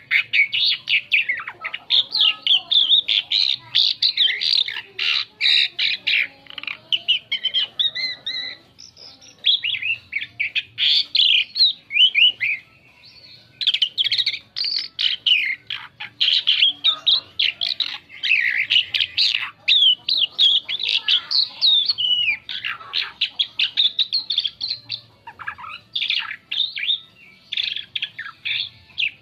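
Asian pied starling (jalak suren) singing a fast, varied song of chirps, whistles and harsher notes, with a short pause about halfway through.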